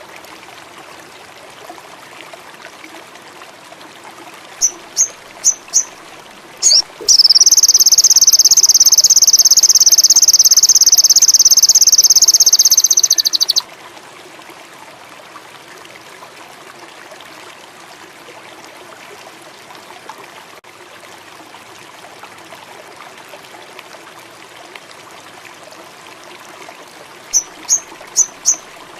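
A sogon indigo songbird gives four quick high chirps, then a loud, high, fast-trilled song lasting about six seconds; near the end the four quick chirps come again. Beneath it runs a steady faint bed of flowing water with frogs and insects.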